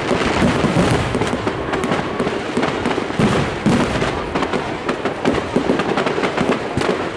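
Fireworks display going off continuously: a dense run of rapid bangs and crackles with no let-up.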